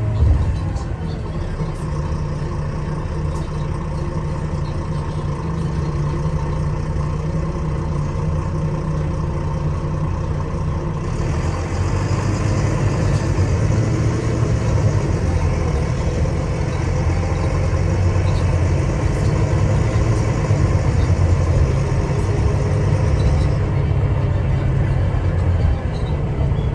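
Engine and road noise of a Wright Gemini 2 double-decker bus, heard from inside the moving bus as a steady low rumble. A steady hiss joins partway through and stops a few seconds before the end.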